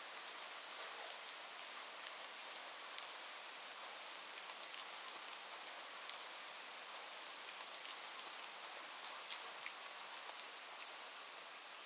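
Steady rain falling, with scattered sharp drop ticks all through it.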